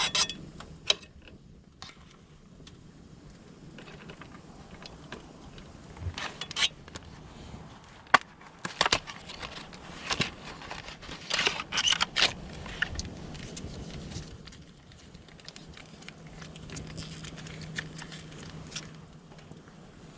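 Scattered light clicks, clinks and rustles of things being handled, in irregular clusters, over a faint steady low hum.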